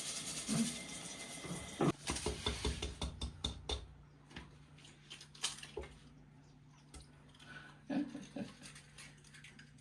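Light clicks, taps and rustling of hands handling things at a kitchen table. The clicks are busy for about the first four seconds, then it goes quieter with a few soft knocks near the end.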